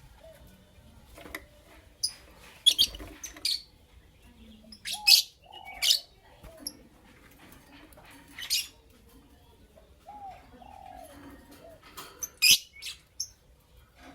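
Lovebirds giving short, shrill chirps at irregular intervals, a dozen or so, some in quick pairs. A few softer, lower rise-and-fall calls come in between.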